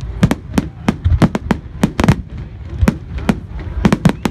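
Fireworks display: a rapid, irregular barrage of sharp bangs, several a second, over a continuous low rumble.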